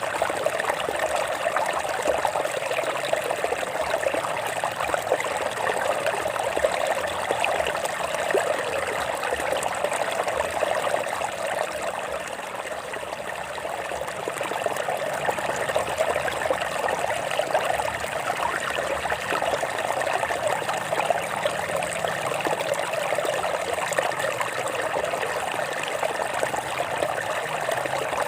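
Stream water flowing and trickling over rocks: a steady babble with no break.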